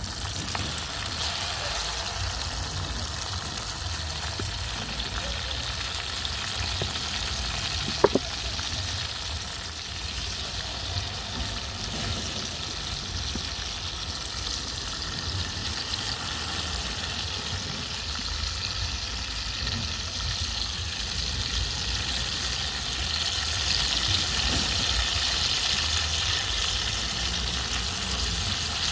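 A fresh batch of chicken pieces frying in a pot, a steady sizzle that grows a little louder in the last few seconds. One sharp knock about eight seconds in.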